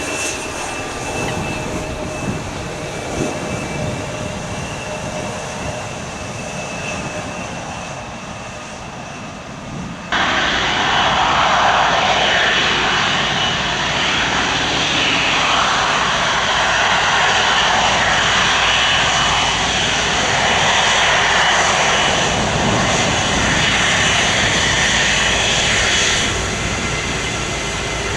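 Airliner engine noise: a steadier, quieter engine sound with a thin whine at first, then an abrupt cut about ten seconds in to a louder roar of an aircraft close by, which eases off near the end.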